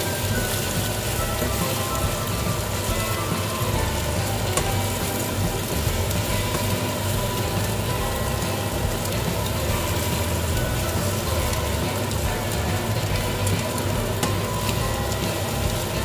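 Fries and egg sizzling steadily in a frying pan as they are turned with metal tongs, with scattered light clicks from the tongs.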